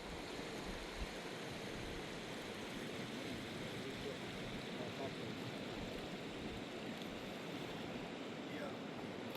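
Fast-flowing mountain river rushing at a steady level.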